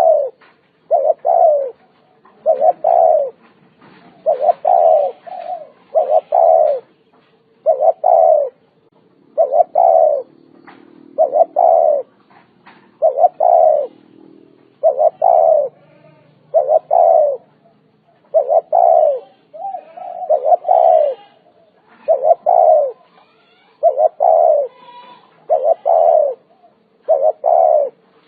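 Spotted dove cooing over and over, a call about every one and a half seconds, each coo dipping in pitch.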